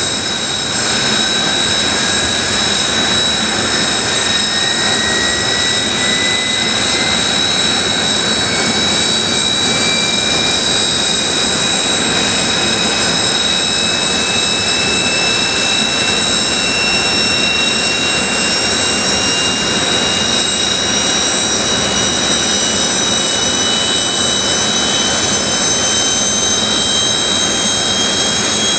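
Kawasaki T-4 jet trainers' F3 turbofan engines on the ground: a steady high whine from engines already running, while another engine spools up during start-up, its whine rising slowly and evenly in pitch.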